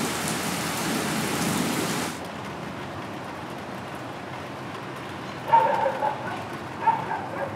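Heavy thunderstorm rain falling steadily, cutting off suddenly about two seconds in and leaving a fainter, duller hiss. Near the end come two short bursts of pitched sound, louder than the rain.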